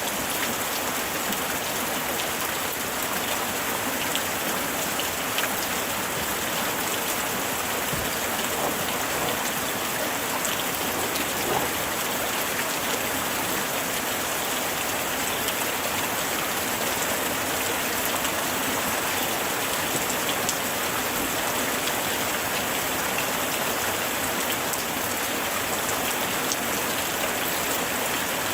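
Steady light rain falling and pattering on surfaces, an even hiss with scattered individual drops ticking throughout.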